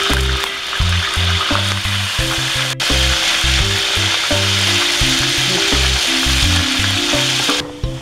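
Pieces of Chinese tofu frying in hot oil in a wok, a steady sizzle, with background music playing over it. The sizzle stops abruptly near the end.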